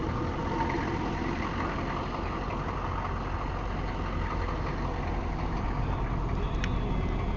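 A 1993 Chevrolet truck's 6.5-litre turbo diesel V8 idling steadily.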